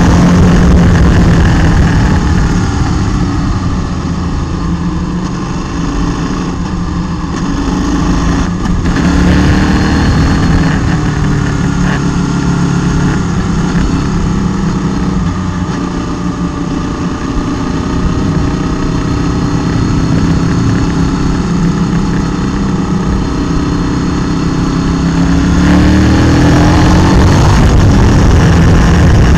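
Motorcycle engine heard from a camera mounted on the bike as it rides uphill, the engine note rising and falling with the throttle; it eases off a few seconds in and opens up again near the end.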